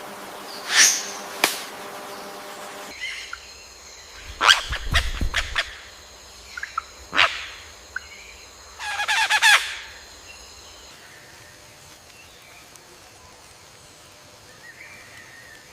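Bird calls: a few sharp calls, then a quick run of rapid notes about nine seconds in, over steady high background tones.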